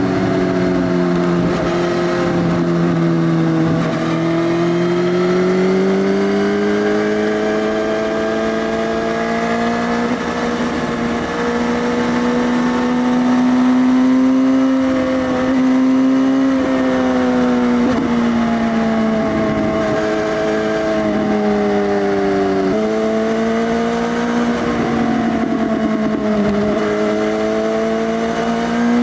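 2018 Suzuki GSX-S1000 inline-four running loud through an Arrow Race Tech full exhaust with the dB killer removed, ridden at moderate revs. The engine note rises and falls slowly and drops suddenly in pitch a few times.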